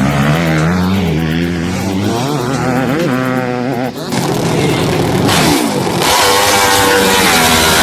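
Motocross bike engines revving, the pitch climbing and dropping with the throttle, cut short about four seconds in and followed by a louder, hissier engine sound climbing in pitch.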